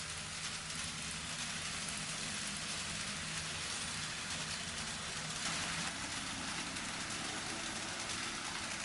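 N scale model trains running on the layout's track: a steady hiss and light clatter of small wheels on the rails, with a low motor hum underneath. It gets a little louder about five and a half seconds in.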